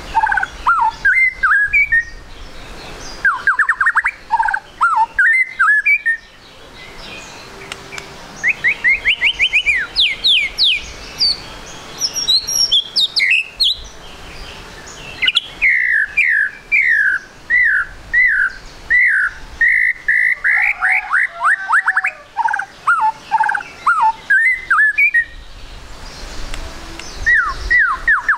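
Young white-rumped shama singing: rapid phrases of clear whistles and quick downward-slurred notes, in bursts separated by short pauses.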